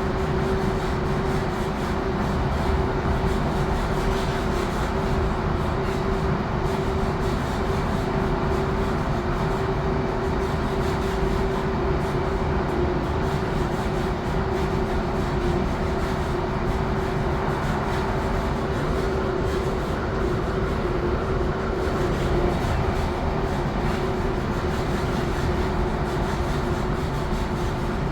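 Passenger train running along the line, heard from on board: a steady rumble of running noise with a constant droning tone.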